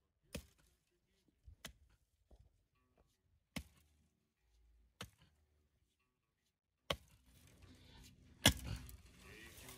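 A handful of sharp, separate knocks or clicks, spaced one to two seconds apart. The loudest comes near the end, over a rustling, handling-type background noise that sets in about two thirds of the way through.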